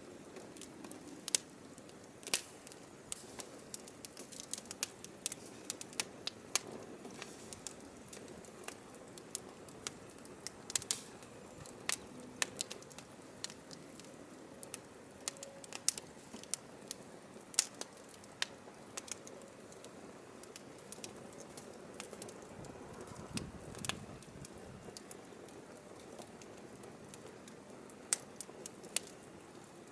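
Firewood burning in an open fire, crackling with irregular sharp pops and snaps over a faint steady hiss.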